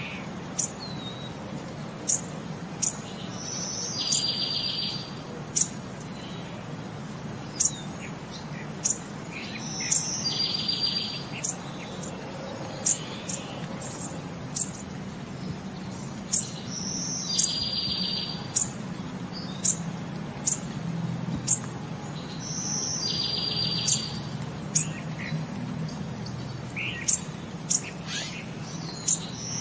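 Birdsong: scattered sharp, high chirps, with a short buzzy trill that comes back about every six seconds, over a faint steady low hum.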